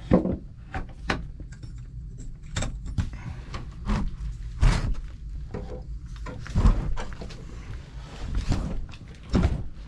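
A cellar door being opened: a run of irregular knocks and thuds, with the loudest coming about half a second in, around the middle, and near the end.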